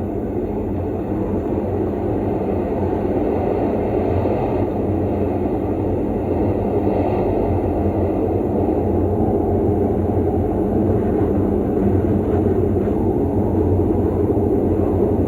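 A steady, dense rumbling noise that slowly grows louder, with no clear beat or melody.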